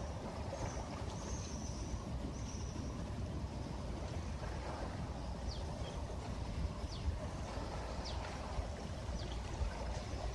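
Steady noise of sea water washing and trickling on a beach, with a low rumble underneath. A few brief high chirps sound over it in the second half.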